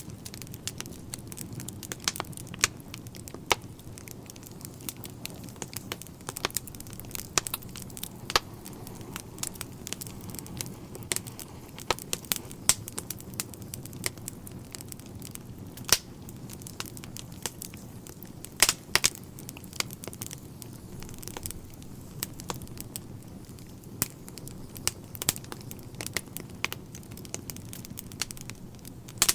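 Wood fire burning in a fireplace: a steady low hiss with frequent sharp, irregular crackles and pops of the burning logs.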